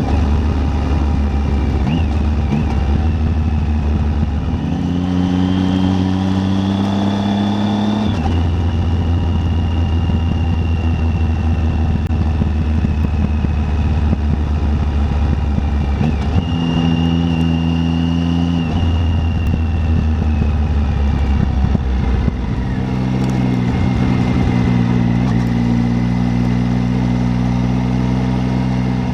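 Triumph Tiger 800's three-cylinder engine running under way on the road. Its pitch climbs under acceleration and drops sharply at gear changes, about 8 seconds in and again around 16, 19 and 22 seconds in.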